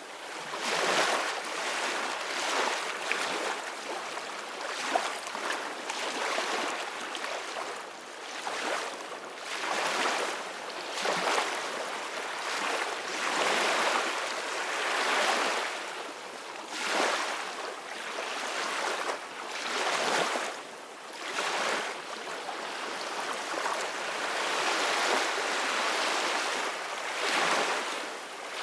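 Ocean waves washing on the shore, a hiss that swells and fades every two to four seconds.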